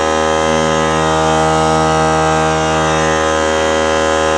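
Small portable air compressor's electric motor and pump running steadily, pumping up the tank.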